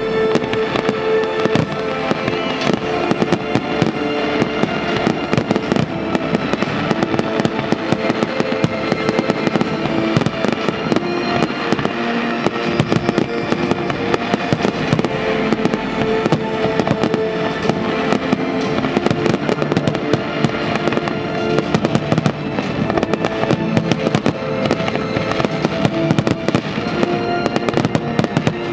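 Aerial firework shells bursting in rapid, continuous succession, many sharp bangs and cracks a second, with music playing under them.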